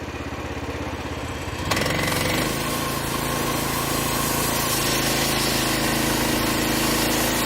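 Portable bandsaw mill's 13-horsepower Briggs & Stratton engine idling, then throttling up sharply a little under two seconds in. It settles into a steady high-speed run with a broad hiss over the engine note.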